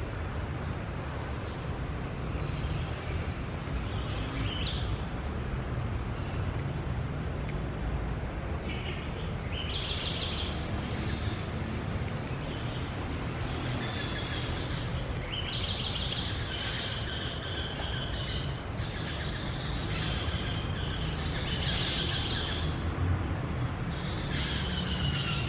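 Parakeets calling in short, repeated screeches, sparse at first and chattering more densely through the second half, over a steady low background rumble.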